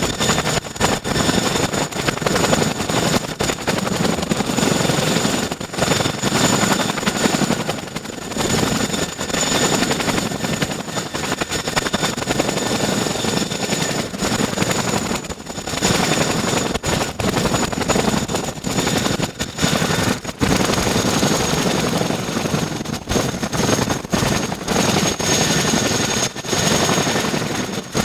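Boeing CH-47 Chinook tandem-rotor helicopter running on its twin turboshaft engines: a steady high turbine whine over loud rushing rotor noise, with short dips throughout.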